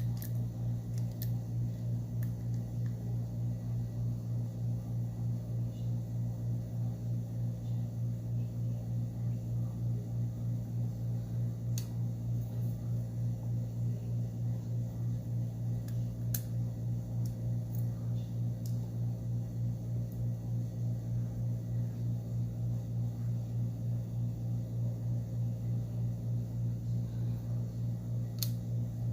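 Steady low mechanical hum with a slight regular pulsing, like a running fan, and a few faint sharp clicks of small tools working on the phone's internals.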